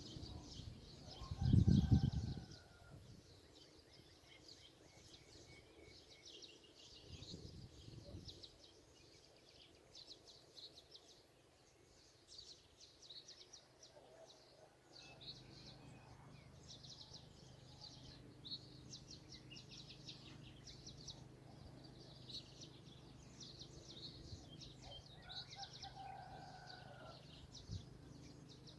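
Birds chirping continuously in rapid, high notes, with a few lower, longer calls now and then. A loud low rumble about two seconds in, and a steady low hum from about halfway on.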